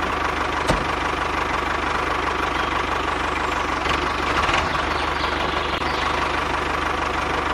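Mini tractor's small engine idling steadily with a fast, even knocking putter. A single click sounds near the start.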